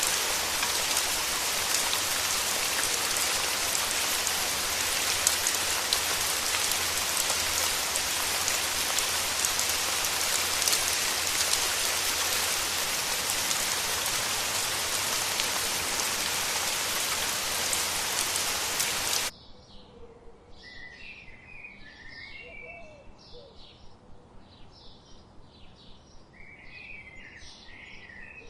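Steady rain hissing, which cuts off abruptly about two-thirds of the way in. Birds calling take its place, with short calls repeating about twice a second.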